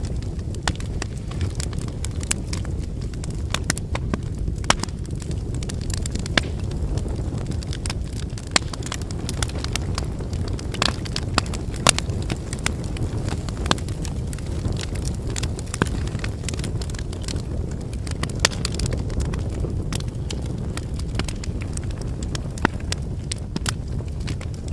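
Wood campfire burning: a steady low rumble of flames with scattered sharp crackles and pops from the burning logs, a few louder snaps among them.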